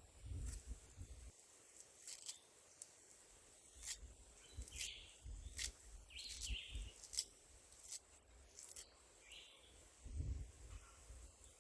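Faint rural outdoor ambience. Scattered light clicks and taps come through it, along with a few short high bird chirps and occasional low rumbles.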